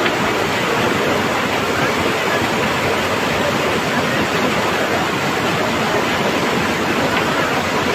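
Steady, loud rush of fast-flowing water, a river in flood spate.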